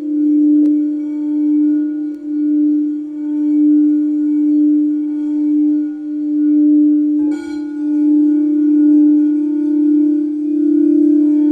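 Crystal quartz singing bowl sounding one sustained tone that swells and fades every second or two. About seven seconds in, a sharp strike adds bright, high ringing overtones.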